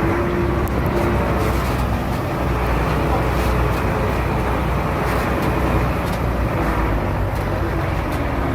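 Heavy diesel engine of earthmoving machinery running steadily and loudly, with a few short sharp clicks over it.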